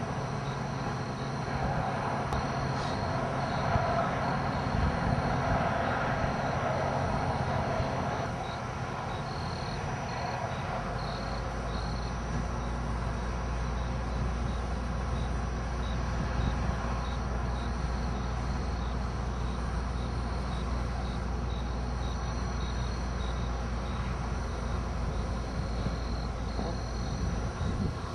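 A vehicle running: a steady rumble and rush of engine and road noise, with a low hum that grows stronger about ten seconds in.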